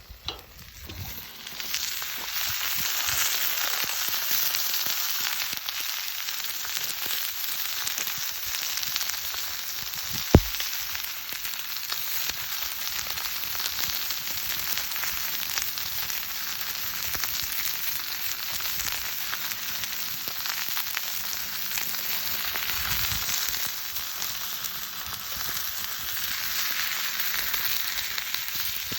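Chicken sizzling and crackling steadily in a Turk frying pan, with one sharp tap about a third of the way in.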